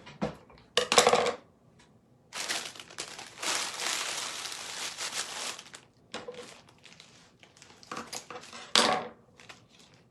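Dry craft moss being pulled out and handled: a stretch of crinkling and rustling from about two seconds in to about six, with sharp clacks about a second in and near the end.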